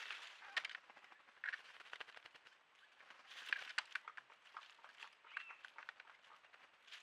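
Faint outdoor forest ambience at a pool, with short bird calls and scattered sharp clicks and taps. A cluster of clicks about halfway through is the loudest part.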